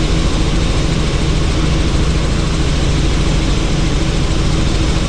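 Helicopter in flight heard from the cabin with the doors off: a steady, fast-pulsing rotor and engine drone under a loud rush of wind.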